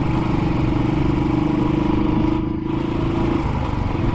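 Royal Enfield Classic 500's single-cylinder engine running steadily under way, its level dipping briefly about two and a half seconds in.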